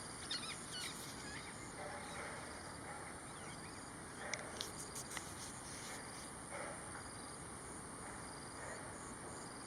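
Steady, high-pitched insect chorus in grassland, with short repeated chirps over it. A few brief bird calls come in the first second.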